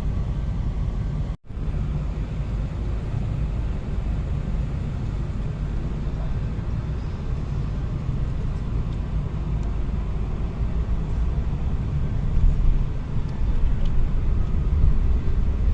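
Steady low rumble of a car driving along the road, from engine and tyre noise. It breaks off completely for a moment about a second and a half in.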